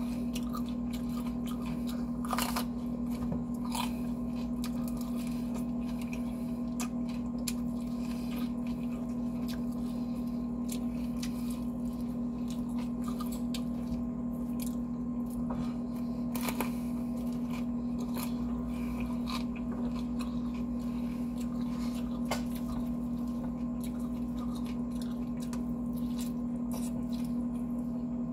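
Close-up chewing and biting of crispy fried chicken, with many short crunches and wet mouth clicks, over a steady low hum.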